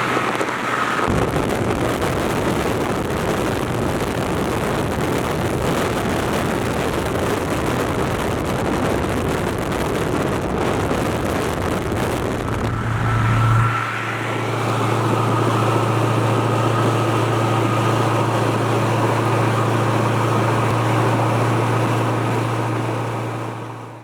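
Vehicle on the move: heavy wind and road noise for about the first half. About halfway through the rush drops away and a steady low engine drone takes over, fading out at the very end.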